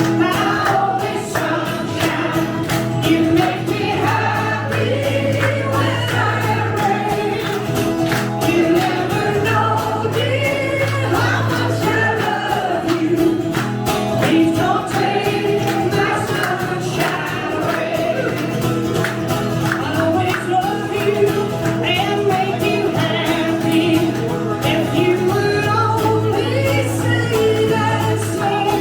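Live band music: singing over held bass notes and a steady strummed accompaniment.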